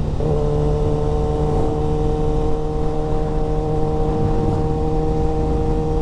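Kawasaki ZX6R sport bike's inline-four with an aftermarket exhaust, running at a steady cruise with no change in pitch, over a low rumble of wind on the microphone.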